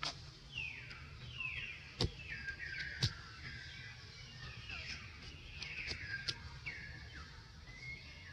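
Birds calling in the background: repeated short chirps falling in pitch, one or two a second, over a steady low hum. Two sharp clicks come about two and three seconds in.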